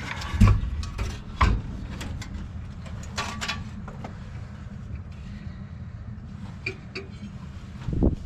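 Metal parts of a rooftop HVAC unit being handled: two sharp knocks in the first second and a half, then scattered clicks and a heavier clunk near the end, over a steady low hum.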